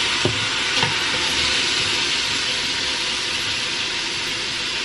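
Tomatoes, onions and garlic sautéing in oil in a stainless-steel pot: a steady sizzle, with two light knocks of a wooden spatula against the pot in the first second.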